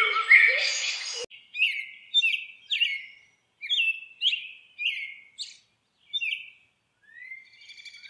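Bird calls. A louder, denser stretch cuts off about a second in, then short chirps repeat about twice a second with brief pauses.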